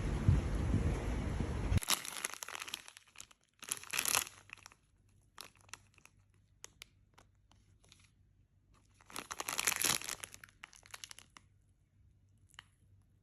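A low wind rumble on the microphone cuts off abruptly about two seconds in. After it come several short bursts of crinkling and tearing, as packaging is handled and torn open, with quiet between them.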